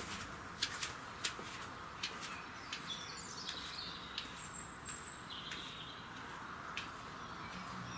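Wild birds' dawn chorus: many short, sharp chirps scattered throughout, with a few high warbling phrases and a brief high whistle in the middle, over a steady background hiss.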